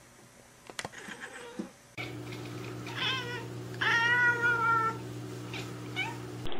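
A calico cat at a window gives a quick run of short chirping calls, then one longer meow lasting about a second.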